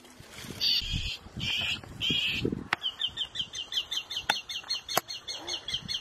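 A songbird singing: three short buzzy high notes, then a fast, even run of short down-slurred chirps, about five a second, starting a little before halfway. A few sharp clicks come in the second half.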